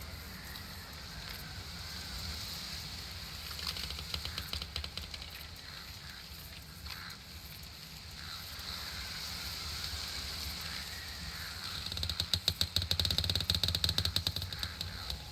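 Outdoor summer nature ambience: a steady high buzz over a low rumble, with a fast run of clicks in the last few seconds.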